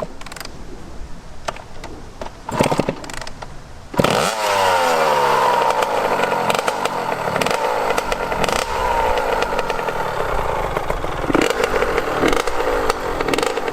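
Two-stroke Honda CR85 dirt bike engine. About four seconds in, it is suddenly revved up, rising in pitch as the bike pulls away, then keeps running hard with the revs rising and falling.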